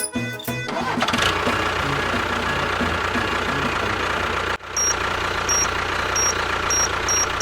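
A vehicle engine running steadily, with a brief dropout past the middle. A string of short, high beeps sounds over it near the end.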